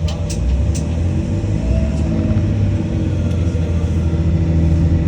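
Diesel train running, a steady low engine-and-wheel rumble that grows slightly louder after the first half second, with three short sharp clicks in the first second.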